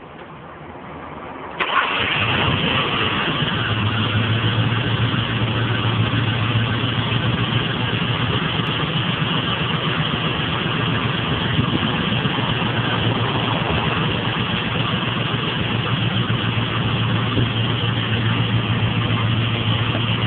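Ford Crown Victoria P71's 4.6-litre V8 catching about a second and a half in, then idling unevenly, 'kind of jumping'. The owner blames a vacuum leak from a cracked intake manifold and possibly a coil-on-plug shorted out by leaking coolant.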